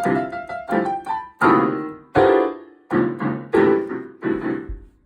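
Yamaha Piaggero NP-12 portable keyboard's piano voice playing a slow run of chords, one struck about every three-quarters of a second, each ringing and fading before the next.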